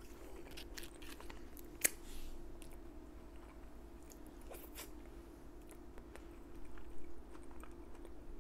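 Close-up chewing of a deep-fried egg roll, with soft crunches and wet mouth clicks. A sharp click comes about two seconds in, over a faint steady hum.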